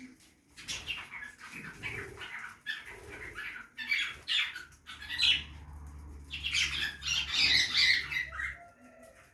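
Budgerigars chirping and chattering in rapid short calls, with wing flaps among them; a low steady hum joins from about halfway through until near the end.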